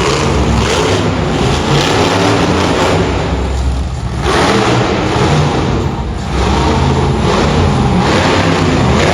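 Monster truck engine revving hard in loud surges, easing off briefly a couple of times.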